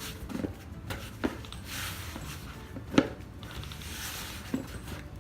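Hands kneading flour-and-cornmeal dumpling dough: soft rubbing and squishing, with a few light knocks, the sharpest about three seconds in.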